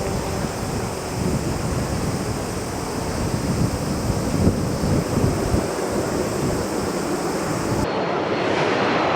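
Jet airliner engine noise as a plane passes: a broad rushing rumble that swells in the middle seconds, with wind buffeting the microphone. Near the end the sound changes abruptly to a different, thinner noise.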